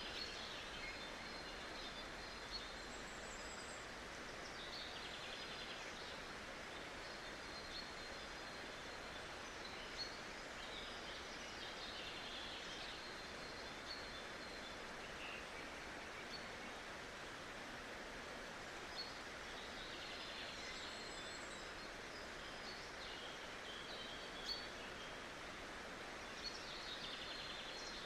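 A forest stream's steady rushing, with small birds chirping and trilling now and then above it.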